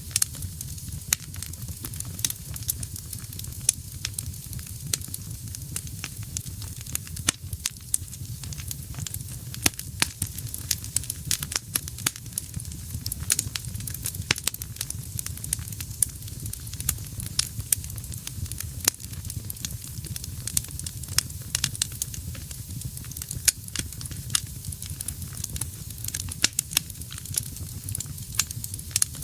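Wood fire burning in a fireplace, crackling and popping in frequent, irregular sharp snaps over a low steady rumble.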